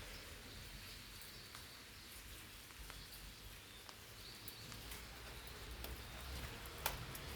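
Raindrops falling on eggplant leaves: sparse, irregular taps over a faint steady hiss, with one louder drop near the end.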